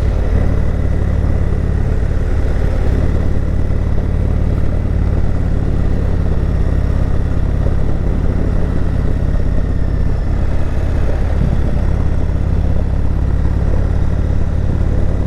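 Indian Chieftain Dark Horse V-twin motorcycle engine running steadily under way, with a constant low drone.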